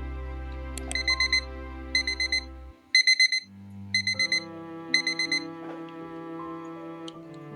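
Electronic alarm beeping in groups of four quick high beeps, about one group a second, five groups in all, over soft background music.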